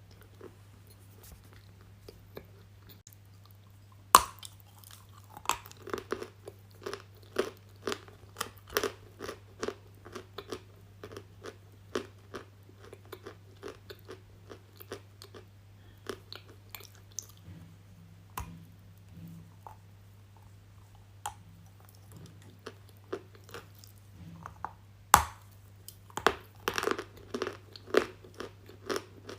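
Close-miked biting and chewing of something hard and crunchy: a sharp bite about four seconds in, then a run of crisp crunching chews that thins out, and another sharp bite near the end followed by quick crunching.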